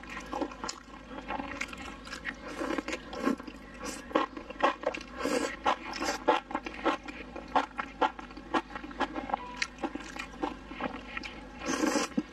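Close-up eating of chili-sauced fried skewers: biting and chewing, a quick irregular run of mouth clicks and smacks picked up by a clip-on microphone.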